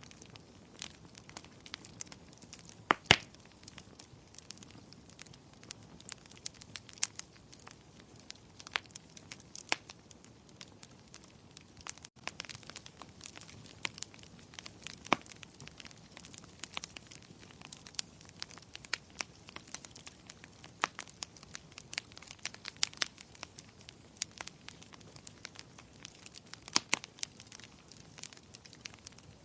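Wood fire crackling in a fireplace: irregular sharp pops over a faint hiss, the loudest a few seconds in and again near the end.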